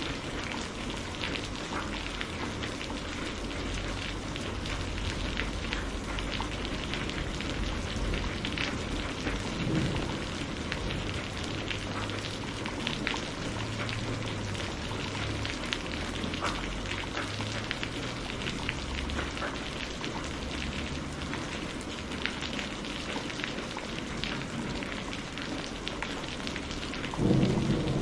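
Steady rain falling, with many individual drops pattering close by. About a second before the end a roll of thunder starts and builds.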